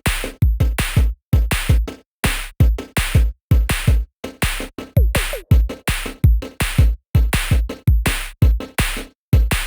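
Background electronic music with a steady drum-machine beat: punchy kick and snare hits about twice a second, with short gaps between bars.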